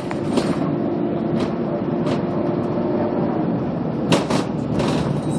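Scania K280UB city bus's five-cylinder diesel engine running with a steady drone whose note drops away about three seconds in, with several short knocks and rattles, the loudest about four seconds in.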